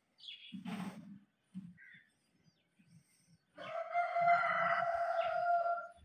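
A few short, high bird chirps, then a loud, long, steady bird call held for over two seconds in the second half.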